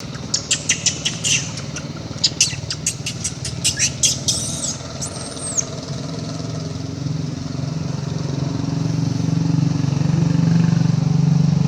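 A steady low engine hum, like a motorcycle running nearby, grows louder over the second half. Over it in the first half come rapid sharp high chirps and two brief squealing calls that rise and then fall.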